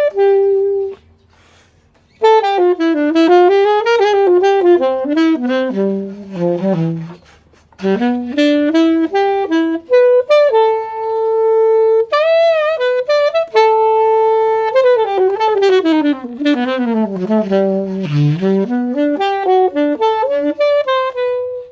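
K-Man alto saxophone played solo with no accompaniment: quick running phrases, two long held notes in the middle, and short breaths between phrases.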